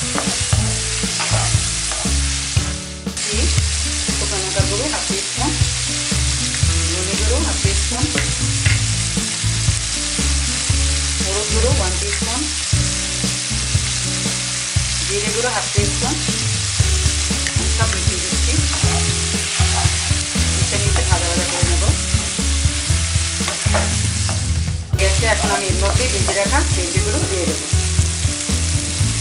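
Chopped onions, tomatoes and green chillies sizzling in hot oil in a kadai, with a wooden spatula scraping and stirring through them. The sizzle drops out briefly twice and picks straight up again.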